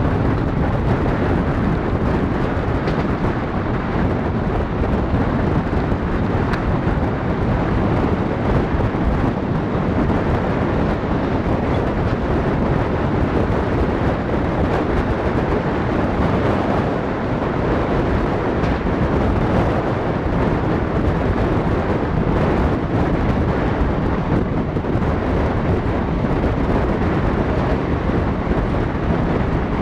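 Express train running at speed, heard from an open coach window or door: a steady rush of wheel and rail noise mixed with wind on the microphone.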